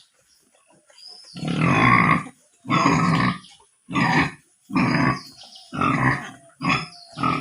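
Pigs grunting in a run of loud, rough calls, about one a second, starting a little over a second in.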